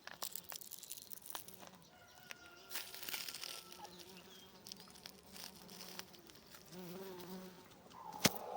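A bee buzzing in flight close to the microphone, its hum wavering up and down, with scattered light clicks and a sharp click near the end.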